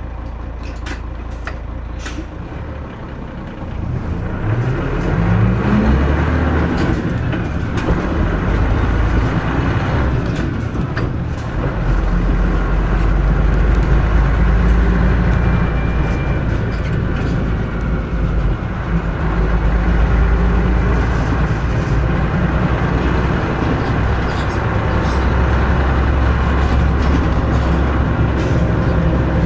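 Mitsubishi Fuso KC-MP317M route bus engine heard from on board: running low at first, then about four seconds in the revs climb as the bus pulls away and accelerates through the gears, with breaks at the gear changes, before it settles into a steady cruise.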